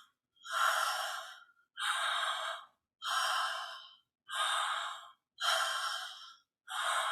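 A woman demonstrating conscious connected breathing through the mouth: about six even breaths, each just under a second long, following one another with only brief gaps.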